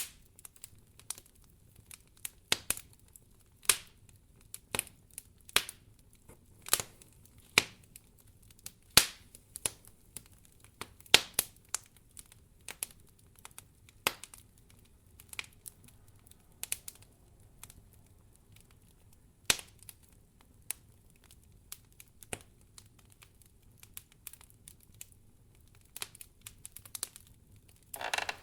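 Wood fire crackling in a fireplace: irregular sharp pops and snaps, a few each second, over a faint low steady hum.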